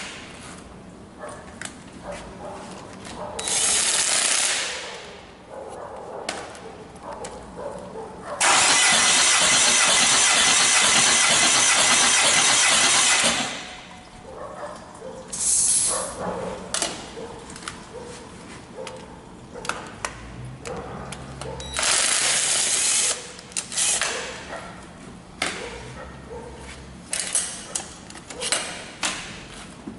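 Hyundai D4CB diesel engine cranked by its starter for a compression test, several times: briefly near the start, for about five seconds in the middle, and briefly twice more later, with clicks of handling and tools between.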